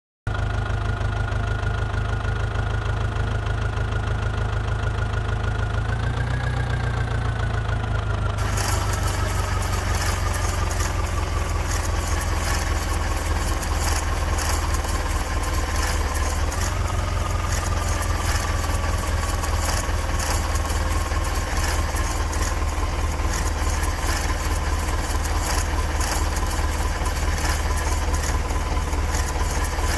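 Heavy diesel engine running steadily with a deep, even pulse. A whine over it rises sharply about six seconds in and again about sixteen seconds in, sinking slowly after each rise. A hiss joins about eight seconds in.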